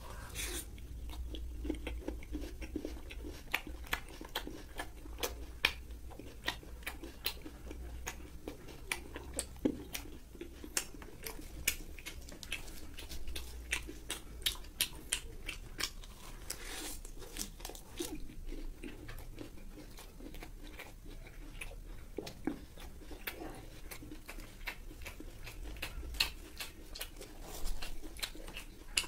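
Close-up eating sounds: a mouthful of fried pork wrapped in lettuce being chewed, with many short crunches and wet mouth clicks throughout.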